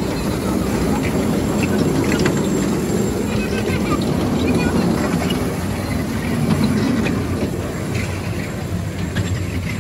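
Train ride running: a steady rumble with faint scattered clicks and rattles.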